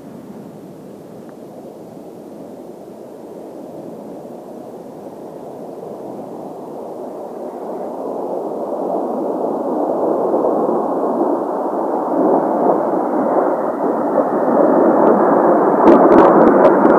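Jet noise of a formation of Kawasaki T-4 jet trainers, growing steadily louder over about fifteen seconds as the formation approaches. A few sharp clicks come near the end.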